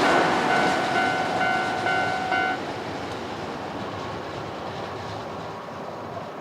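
Keio Inokashira Line electric train passing over a level crossing and receding, its rumble fading away. The crossing's warning alarm rings in quick repeated dings for a couple of seconds, then stops.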